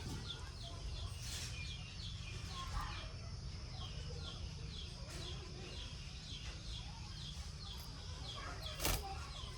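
A bird chirping softly over and over, short falling high notes about two a second, with a single sharp click near the end.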